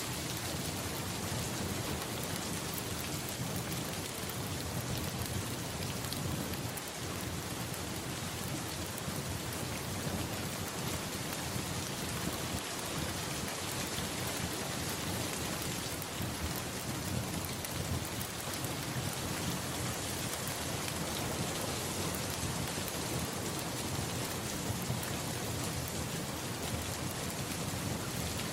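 Steady, dense rain falling, with a low rumble of thunder underneath.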